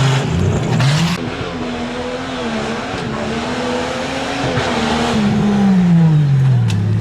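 A competition 4x4 truck's engine revving under throttle: its pitch climbs about a second in, wavers up and down, then falls away steadily from about five seconds in as the throttle comes off.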